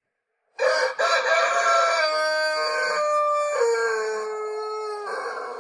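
A rooster crowing: one long, drawn-out crow starting about half a second in, with a brief catch near its start and the pitch stepping down twice toward the end.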